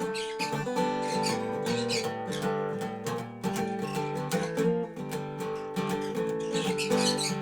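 Dobro resonator guitar played as a blues jam: picked notes in quick succession ringing over sustained chord tones.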